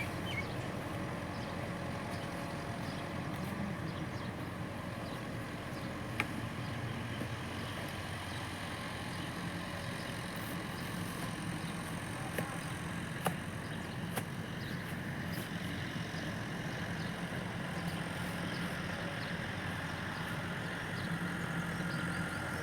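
Tractor engine idling steadily, with a few sharp clicks over it.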